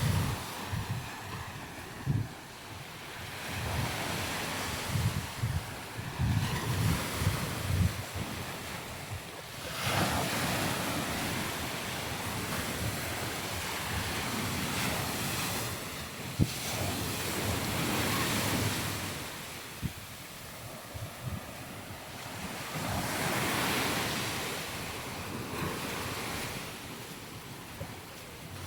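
Sea waves washing up a sandy beach, the surf swelling and easing every several seconds, with wind buffeting the microphone for the first third.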